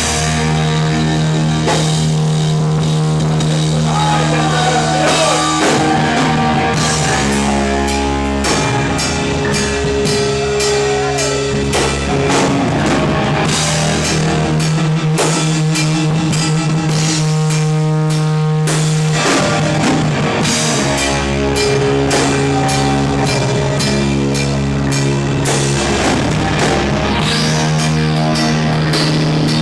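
Live rock band playing an instrumental passage: distorted guitars and bass holding chords that change every few seconds, over a full drum kit, with a bending lead-guitar line a few seconds in.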